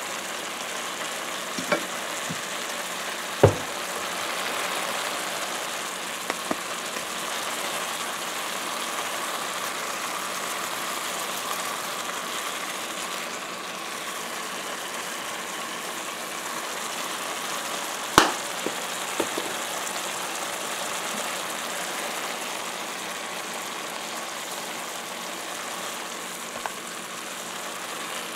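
Onion and ginger sizzling steadily in hot oil in a metal wok while being stir-fried, with a few sharp clacks of a utensil against the pan, the loudest about three seconds in and again about eighteen seconds in.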